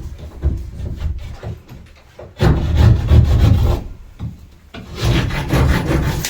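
Plasterboard being cut by hand, with rapid rasping saw strokes in two spells: one about two and a half seconds in, the other from about five seconds in until near the end.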